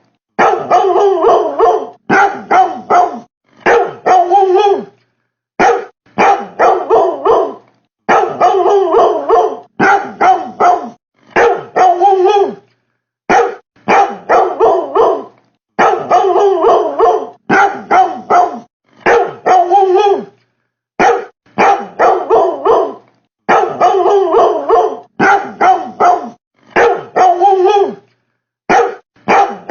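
Dog barking in quick runs of several barks with short gaps between runs. The same stretch repeats about every eight seconds, as a looped recording.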